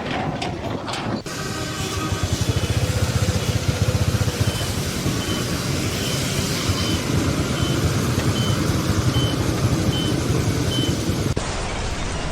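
A heavy vehicle's engine running, with a reversing alarm giving a row of short, evenly spaced high beeps, about one every three-quarters of a second, from around four seconds in until shortly before the end.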